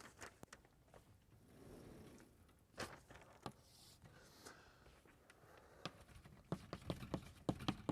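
Faint scattered taps and knocks in a quiet room, with a quicker run of light taps near the end.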